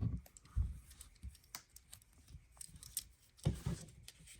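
Plastic LEGO pieces clicking and clattering as they are handled and snapped on, with a few soft thumps.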